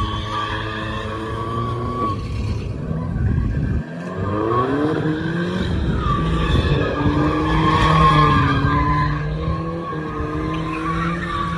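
Car tires squealing in a long continuous skid while the engine revs hard, its pitch climbing and dropping several times, with a brief dip in the engine about four seconds in.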